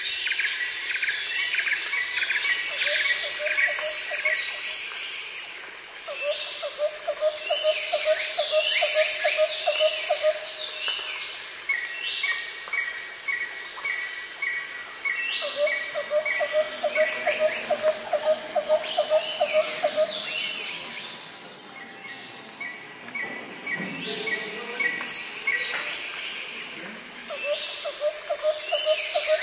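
Birds chirping and calling with quick falling notes, over a lower pulsing trill that comes and goes in bouts of a few seconds. About midway there is a fast even run of short notes.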